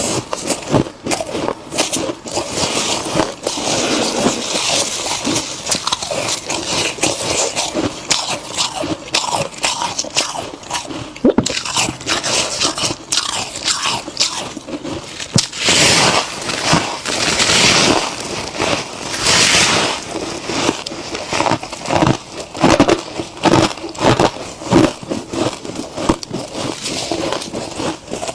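Freezer frost grown with a humidifier being bitten and chewed: a dense run of crisp crunches and crackles, with two longer scratchy crunching stretches a little past halfway.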